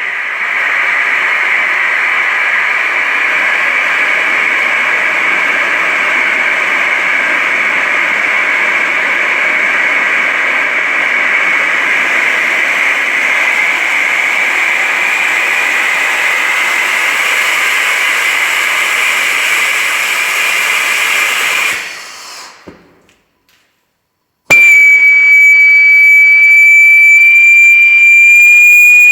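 Experimental detonation-type liquid-fuel rocket engine, running as a low-pressure burner, firing with a loud steady rushing hiss pitched high for about 22 seconds, which then dies away. After a moment of silence it starts again suddenly as a painfully loud, piercing single-pitched whistle that creeps slightly upward in pitch.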